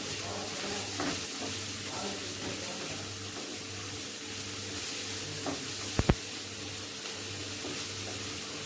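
Onion and tomato sizzling gently in a kadai over a low gas flame while being stirred, with faint scraping strokes against the pan. Two sharp knocks about six seconds in.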